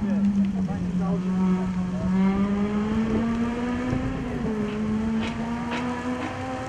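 Rally car engine held at high, fairly steady revs, its pitch sagging and rising a little.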